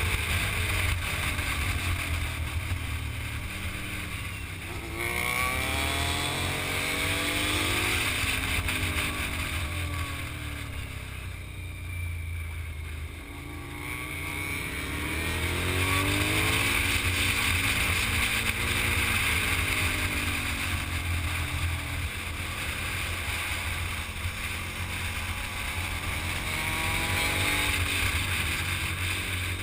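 Motorcycle engine heard from on board, its pitch climbing as it accelerates and dropping away as the throttle closes, several times over. Wind rumbles steadily on the microphone.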